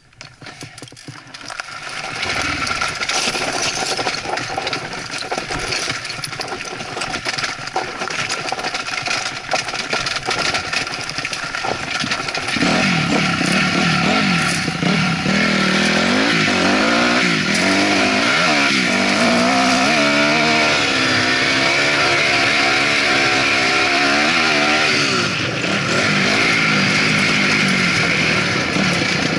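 2008 Honda CRF250R dirt bike's single-cylinder four-stroke engine under way, heard from a helmet camera. It comes up about two seconds in, and from about halfway it runs louder, its pitch rising and falling as the throttle is worked over the terrain.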